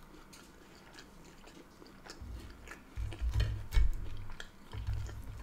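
Close-miked chewing of a mouthful of chips, with small wet mouth clicks. From about two seconds in come low thumps and a few sharper clicks, with the metal fork working on the plate.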